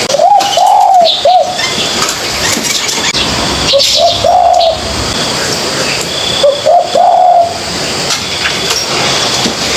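A young spotted dove cooing, still learning its call: three short cooing phrases of curved notes, about three seconds apart. Small birds chirp faintly behind it.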